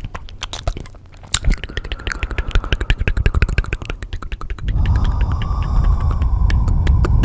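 Layered ASMR sounds: rapid, crisp clicks and crackles, joined about four and a half seconds in by a steady low rumbling hum.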